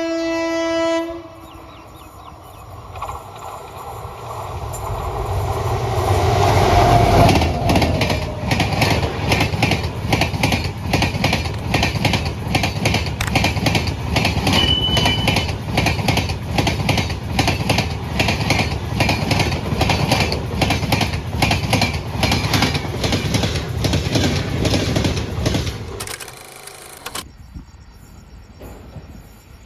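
Indian Railways train sounding its horn briefly, then rushing past at high speed with rapid, dense clatter of wheels over rail joints for about twenty seconds. The pass stops abruptly near the end, leaving quieter background.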